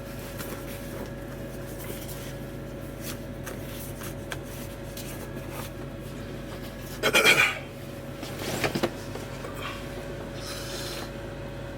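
Steady low hum with a faint steady tone, overlaid by brief rubbing and scraping handling noises, the loudest about seven seconds in and a smaller one shortly after.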